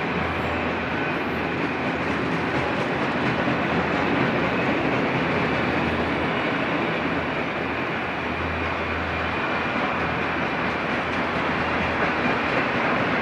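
Enclosed autorack freight cars rolling past at speed: a steady rumble of steel wheels on the rails.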